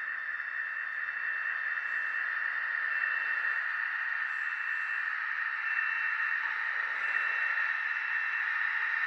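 HO-scale Life-Like S1 diesel locomotive model's sound decoder playing diesel engine sound through its small speaker: a steady, thin, tinny drone, with a faint high tone that comes and goes.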